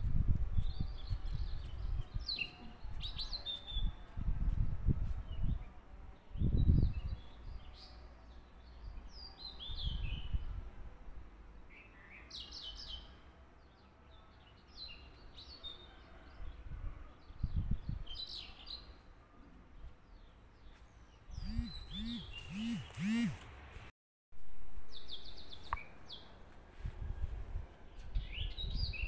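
Small birds chirping on and off in short high calls, with a quick run of four calls about 22 seconds in. Low thumps and bumps from handling come between them, the loudest about seven seconds in.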